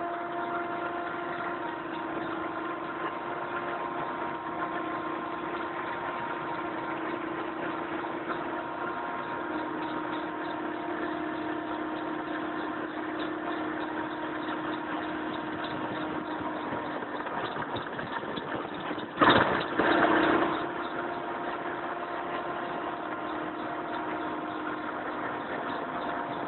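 Mil Mi-17V5 helicopter's twin turboshaft engines running with a steady whine made of several held tones. A brief loud burst of noise comes about 19 seconds in.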